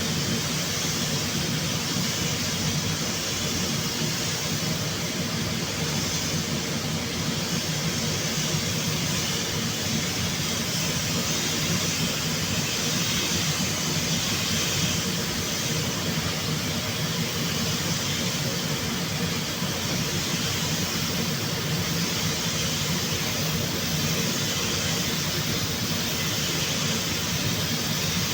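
Steady hiss of a compressed-air paint spray gun over the steady drone of fans or a motor. The hiss swells and eases a little every few seconds.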